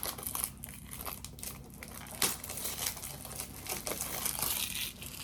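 Packaging crinkling and rustling in irregular crackles as it is handled and unwrapped, with one sharper crackle about two seconds in.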